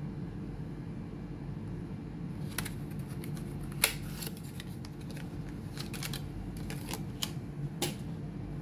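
Small sharp clicks and taps of parts and tools being handled on an opened laptop, starting about two and a half seconds in, with one louder click near the four-second mark, over a steady low hum.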